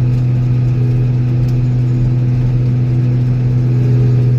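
Old Steiger four-wheel-drive tractor's diesel engine running steadily under even load.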